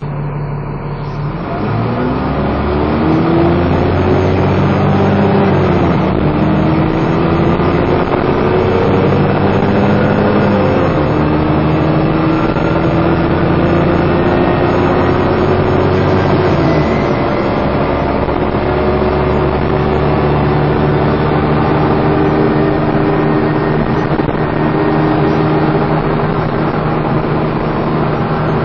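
Dennis Trident 2 double-decker bus accelerating hard. The engine pitch climbs, then drops at gear changes about 6, 11 and 17 seconds in, then holds steady. A whining 'hoover' noise runs over the engine throughout.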